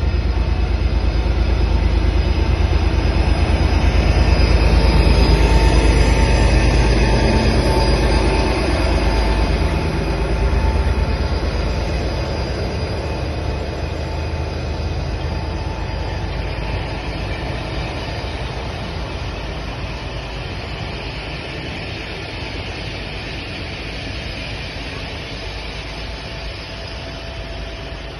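Diesel locomotive hauling a train of Pullman passenger coaches through a station. Its low rumble builds to its loudest about five seconds in as it passes, then the coaches' wheels roll by with a steady noise that slowly fades.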